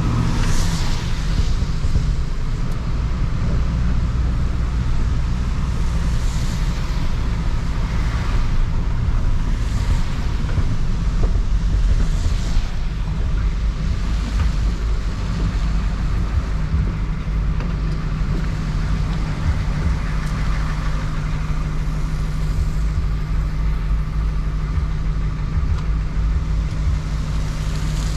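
A 1993 Ford F350's 7.3 IDI diesel pickup driving at steady road speed, heard as a continuous engine and road-noise drone. A steady low engine note becomes stronger about halfway through. Several soft whooshes of passing traffic come and go.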